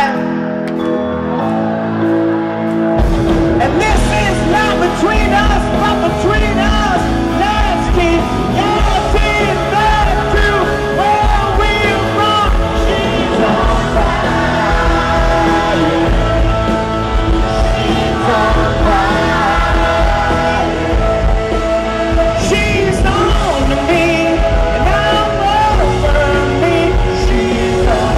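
Live pop-rock band playing with sung vocals; the full band with drums kicks in about three seconds in.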